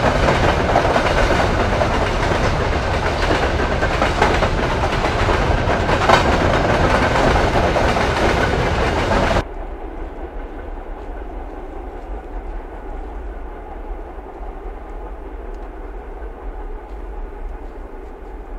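Freight train wagons, covered hoppers and tank cars, rolling past close by: a loud, steady rattle and rush of steel wheels on the rails. About nine seconds in it cuts abruptly to a quieter, duller rumble of the train moving away in the distance.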